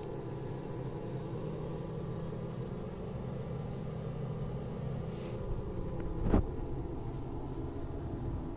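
Honeybees buzzing in a steady low hum, with one sharp knock about six seconds in.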